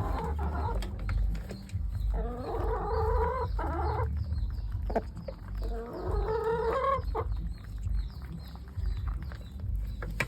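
Layer hens clucking as they feed on corn, with two longer drawn-out calls about two and six seconds in and scattered short taps between them.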